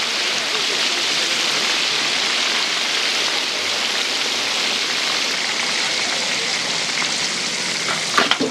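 Food deep-frying in a wok of hot oil, a steady dense sizzling hiss. A brief clatter of a few sharp knocks near the end.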